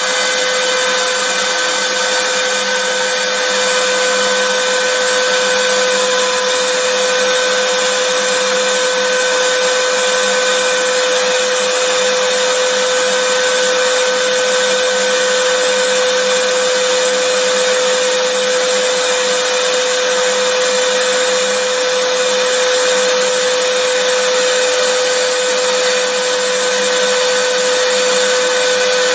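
Vacuum cleaner motor running steadily: an even rushing hiss with a constant whine, never changing.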